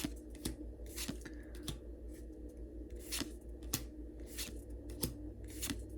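Pokémon trading cards being slid one behind another while someone looks through a freshly opened pack, a soft swish or click about every half second, over a low steady hum.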